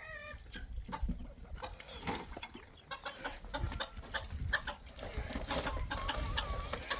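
Chickens clucking, with scattered short knocks and rustling close by.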